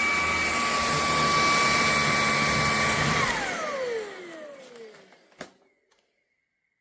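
ElecKeys K10 cordless stick vacuum running with a steady high whine, then switched off about three seconds in. The whine falls in pitch as the motor spins down and fades away, followed by a single sharp click.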